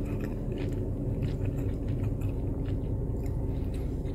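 A person chewing a mouthful of beef pulao, rice and meat, with soft scattered clicks over a steady low background hum.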